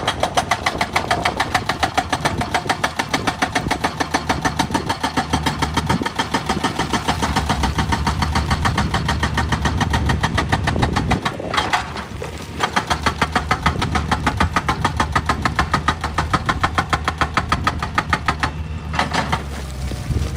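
Excavator-mounted hydraulic breaker hammering rock in rapid, even blows, several a second, over the diesel engine's drone, stopping briefly twice.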